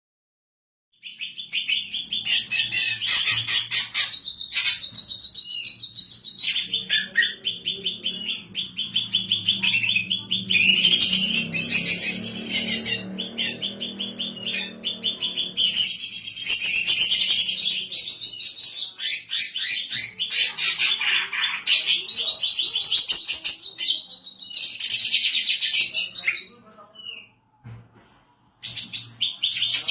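Female greater green leafbird (cucak ijo) in full, active song: a fast, continuous run of high chattering and whistled notes that starts about a second in and breaks off briefly near the end.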